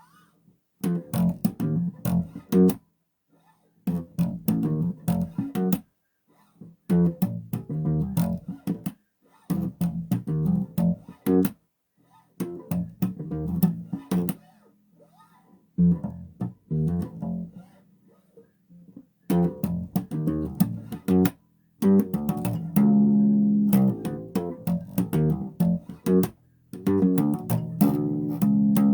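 Solo bass guitar played in short phrases of plucked notes, separated by brief pauses.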